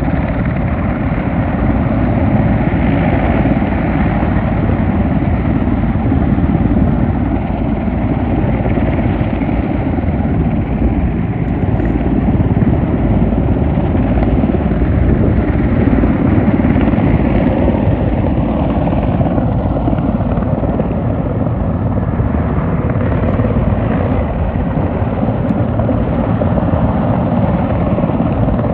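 Large firefighting helicopter running loud and steady, its rotor beating fast over the engine's noise.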